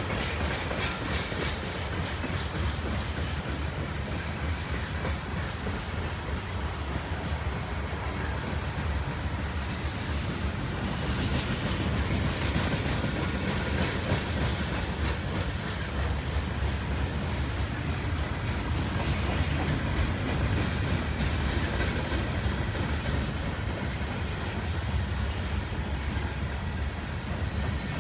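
Freight cars of a mixed manifest train rolling past: a steady rumble of steel wheels on rail with a running clickety-clack of wheels clicking over the track, densest in the first couple of seconds.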